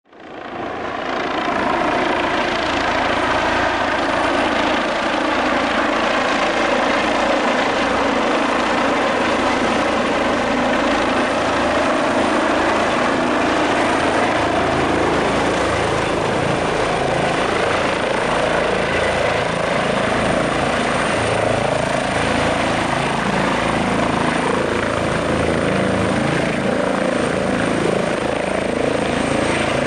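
Helicopter rotor and turbine engine noise, loud and steady, fading in over the first second.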